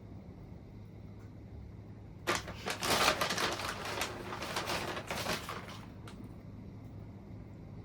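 Crinkling and rustling of a plastic bag of shredded cheese being handled while cheese is sprinkled, starting about two seconds in and lasting about three and a half seconds. A low steady hum runs underneath.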